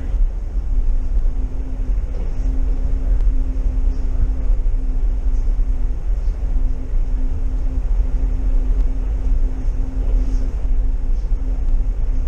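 Cabin sound of a DD VIRM double-deck intercity train running along the line: a loud, steady low rumble with a steady hum over it.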